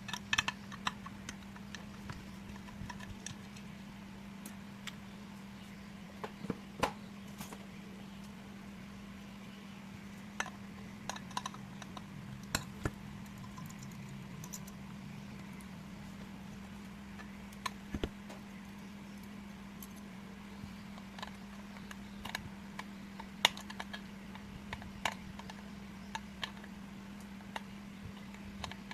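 Scattered small metallic clicks, taps and clinks at irregular intervals as hard drive parts and small tools are handled during disassembly, over a steady low hum.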